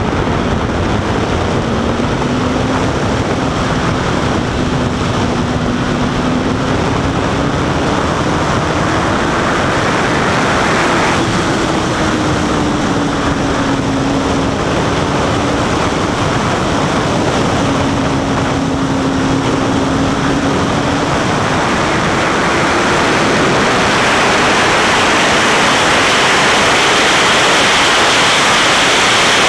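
Honda CBR1000RR Fireblade's inline-four engine on the move, its pitch climbing in the first seconds as the bike accelerates, then rising and falling with the throttle before fading under the wind. Heavy wind rush on the microphone throughout, growing a little louder near the end.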